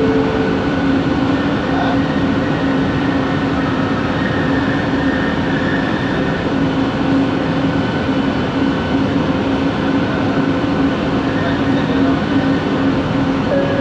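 Original-series Kelana Jaya Line train's linear induction motor running, a steady motor hum with higher held tones over the even rumble of the train in motion.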